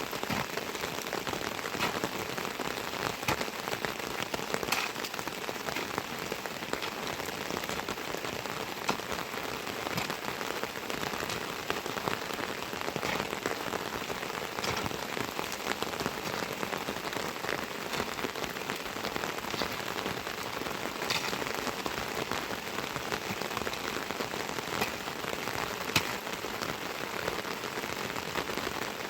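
Steady heavy rain falling, with many separate drops striking close by as sharp ticks over the hiss.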